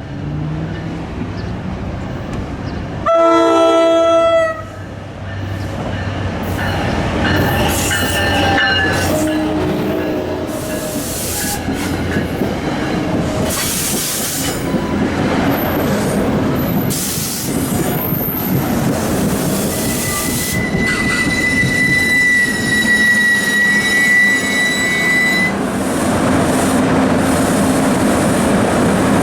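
NJ Transit ALP-45DP locomotive sounding one short horn blast about three seconds in, then the train rolling into the station with wheel clatter and squealing wheels. A long steady squeal comes near the end.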